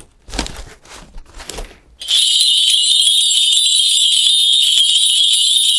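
A few light rustles and clicks, then about two seconds in a shaman's cluster of brass spirit bells starts being shaken hard, giving a loud, continuous, high-pitched jingling.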